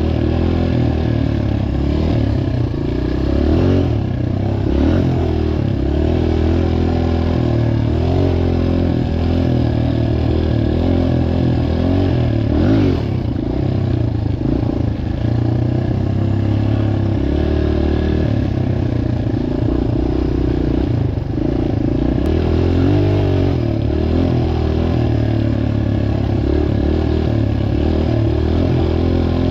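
Dirt bike engine running under riding, its pitch rising and falling as the throttle opens and closes.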